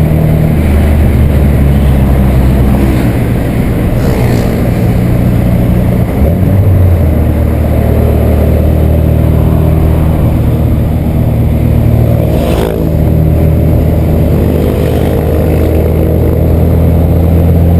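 VW Santana's AP 2000 2.0-litre four-cylinder engine running under way with a deep growl, its pitch stepping to a new steady level about half a second in and again around six or seven seconds in, and dipping briefly a little past two-thirds of the way through.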